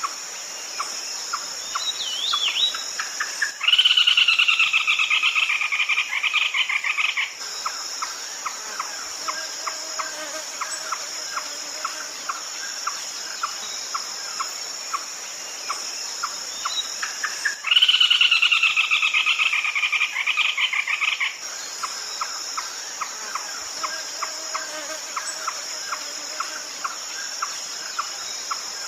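Red-legged crake calling twice, about fourteen seconds apart. Each call is a rapid pulsed series lasting about four seconds and falling slightly in pitch. Behind it are a steady high insect drone and a regular ticking.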